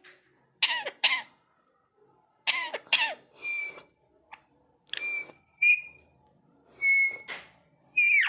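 Indian ringneck parrot vocalising: a string of short rasping calls, then several brief whistled notes, each held at one pitch, the last sliding downward near the end.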